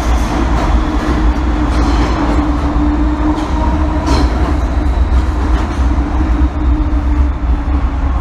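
MTR M-Train electric multiple unit heard from inside the passenger car while running between stations: a loud, steady rumble of wheels on track with a held humming tone over it.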